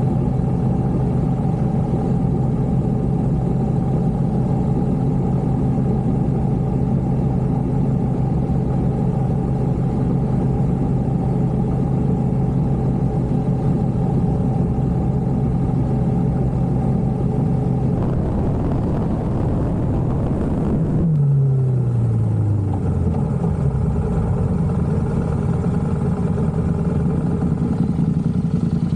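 Motorcycle engine running at a steady speed under way, then a rush of noise about 18 seconds in, after which the engine note falls in pitch as it slows.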